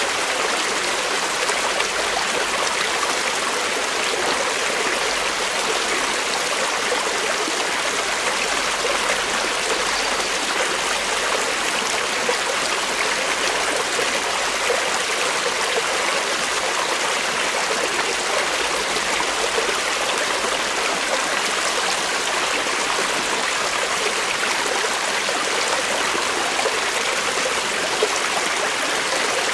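Creek water flowing, a steady, even sound that does not change.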